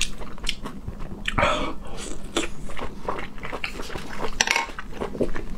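Close-miked eating: a person biting into and chewing a mouthful of soft food, an irregular run of quick mouth clicks and smacks.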